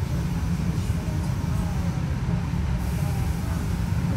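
Steady low rumble of a moving passenger train heard from inside the carriage, as a freight train's wagons pass close alongside.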